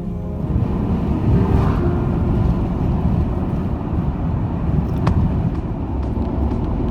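Truck driving on the road: a steady, loud engine and road rumble, with a single sharp click about five seconds in.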